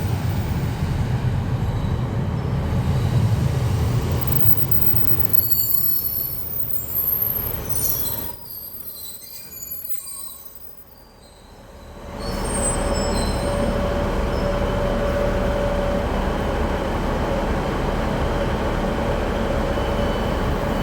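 Northern Class 156 diesel multiple unit arriving: a heavy rumble as it runs in, then high brake and wheel squeals from about five to eight seconds in as it slows to a stop. After a brief lull, a steady hum with a held tone sets in from about twelve seconds, the train standing at the platform with its engines running.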